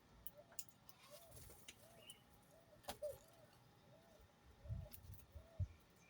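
A bird calling with a short, soft rising-and-falling note repeated evenly, about three every two seconds. A few clicks and low thumps, the loudest near the end.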